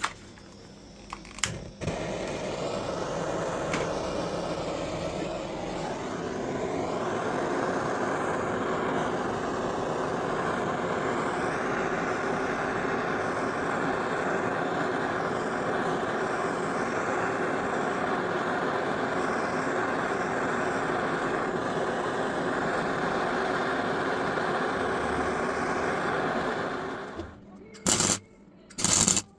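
A blowtorch lit after a couple of clicks, then burning with a steady hiss that gets louder about seven seconds in, preheating cast iron before welding. The flame cuts off near the end, followed by two short loud bursts of noise.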